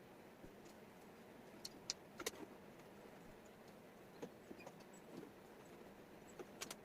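Scattered sharp clicks and taps of wooden jigsaw puzzle pieces being handled and set down, over a faint steady hiss. The loudest clicks come about two seconds in, with another small cluster near the end.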